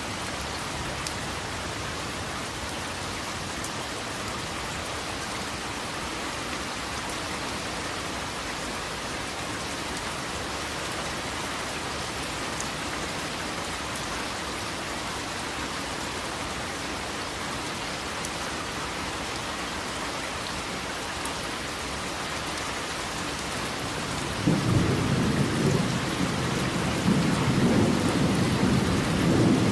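Steady heavy rain falling. Near the end, a loud low rumble of thunder rolls in over it.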